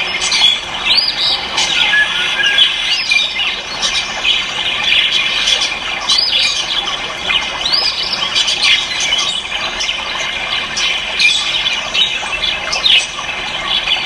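Many caged birds calling at once: a dense, unbroken chorus of overlapping squawks, squeals and chirps.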